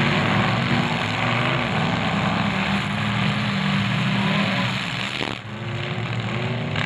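Several demolition derby cars' engines running together, their pitch rising and falling as drivers rev.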